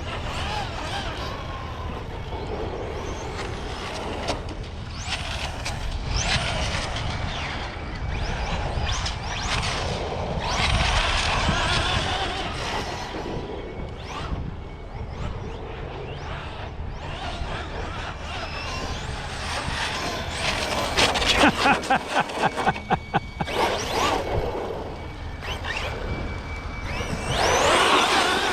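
Electric radio-controlled cars driving on pavement: their motors whine up and down as they speed up and slow down, over a steady low rumble. About two-thirds of the way through comes a quick run of sharp pulses, about four a second, and a louder run near the end.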